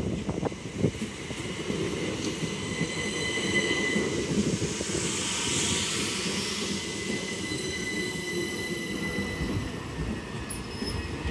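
Southeastern Class 375 electric multiple unit passing over the level crossing. Its wheels click over the rail joints at first, then it runs with a steady rumble and high, steady wheel squeal, and the sound fades near the end.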